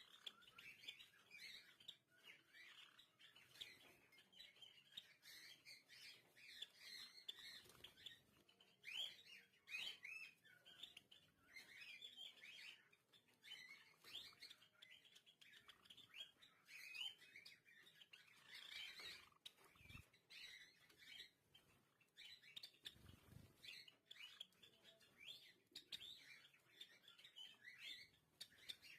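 Java sparrows chirping faintly: many short, high chips and twitters in a loose stream, with scattered soft clicks.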